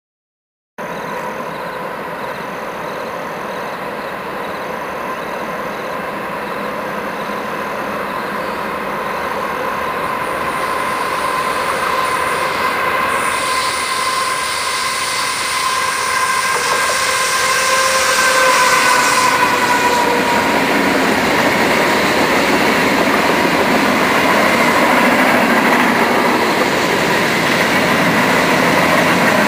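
CSX freight train approaching around a curve and rolling past, growing steadily louder as the locomotives and then the freight cars go by. The sound starts about a second in, and a thin steady whine runs over the rumble and drops in pitch about two-thirds of the way through.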